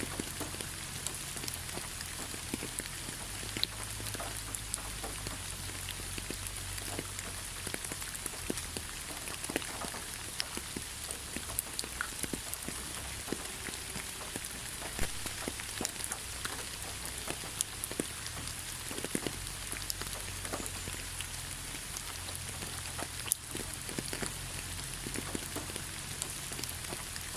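Steady rain falling on forest foliage, an even hiss with many separate drops ticking and pattering close by, a few louder drips standing out.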